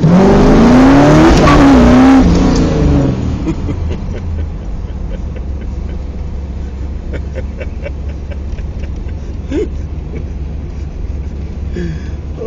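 1969 Pontiac Firebird Trans Am's 400 V8 accelerating hard, heard from inside the car: the engine note climbs, dips and climbs again, then after about three seconds eases off into a steady low rumble as the car cruises.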